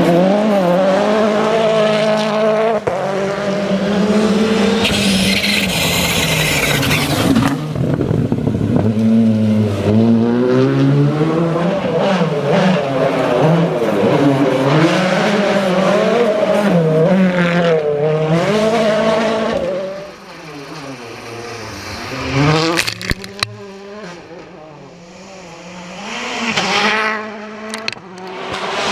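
Rally car engine, a turbocharged four-cylinder, revving hard with pitch rising and falling through rapid gear changes, with a burst of hiss about a quarter of the way in. About two-thirds through the car fades away, and a few sharp cracks follow before another car is heard approaching near the end.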